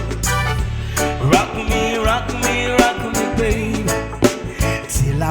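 Reggae band music: steady bass line and a regular drum beat, with guitar and a voice or keyboard melody over it.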